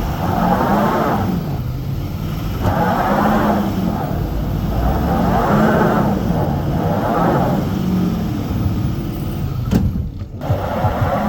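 A truck engine revved about four times in a row, each rev rising and falling in pitch. The sound breaks off briefly near the end.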